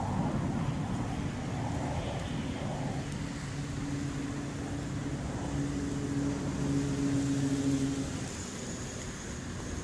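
Low steady rumble of motor traffic, with a vehicle's engine hum rising out of it from about three and a half to eight seconds in.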